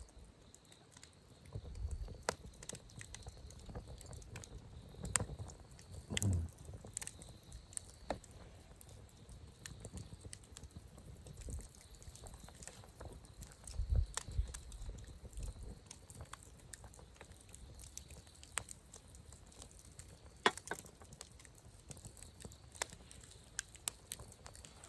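Wood campfire crackling, with scattered sharp pops every second or two and occasional low rumbles, over a faint steady high tone.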